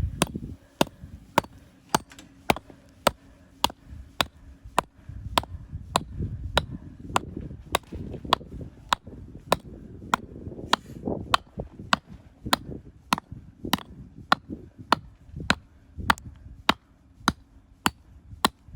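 Camping axe chopping into a log of firewood in a steady run of sharp blows, nearly two a second, splitting it bit by bit.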